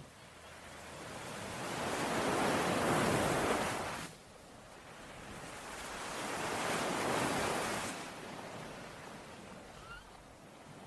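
Sea waves washing onto a shore in two swells. The first builds to a peak and ends abruptly about four seconds in; the second rises and fades more gently. A faint bird chirp comes near the end.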